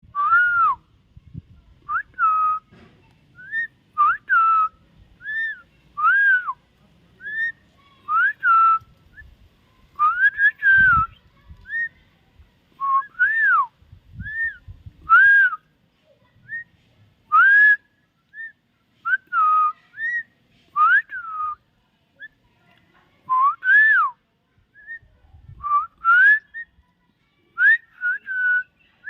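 Common myna whistling: a long series of short, clear whistled notes, each arching up and down or sliding down in pitch, coming about once a second with small gaps between them.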